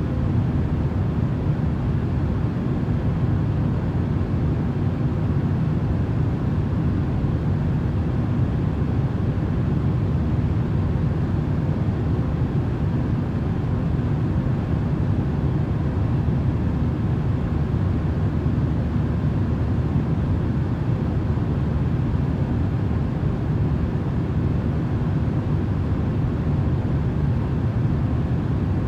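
A deep, even rush of steady noise from a sleep-sound track, with no changes or separate events.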